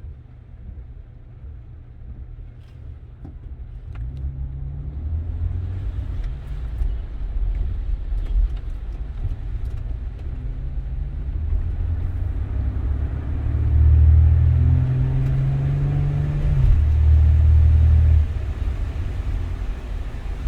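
Car driving on the road: low engine and road rumble that grows louder as it speeds up a few seconds in and again in the second half, with rising engine pitch and a steady hiss of tyres on the road.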